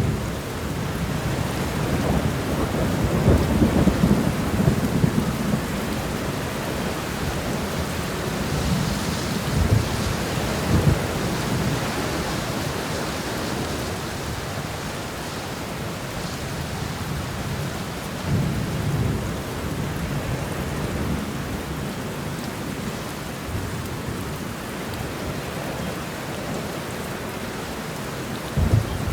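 Steady rain shower with several low rumbles of distant thunder rolling through; the longest and loudest swell comes a few seconds in.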